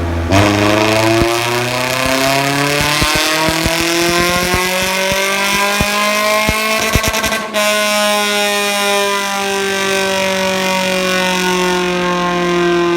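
A Toyota Vios engine breathing through a full straight-through exhaust, pulling steadily up through the revs for about seven seconds with sharp crackles along the way. The revs then drop suddenly and it runs on at a lower, nearly steady pitch.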